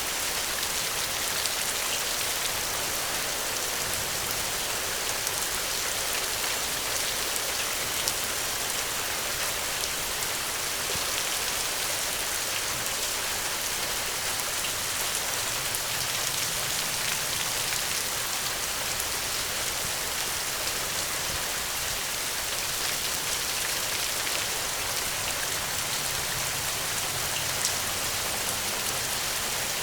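Steady rainfall, a dense even hiss with many small drop ticks scattered through it.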